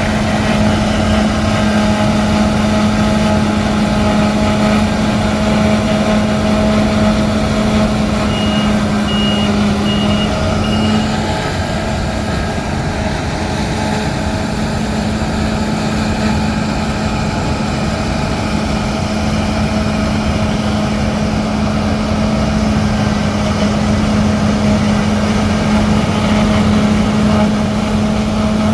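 Diesel engines of heavy harvest machinery running steadily with a constant hum. About a third of the way in, a warning beeper gives about four short high beeps.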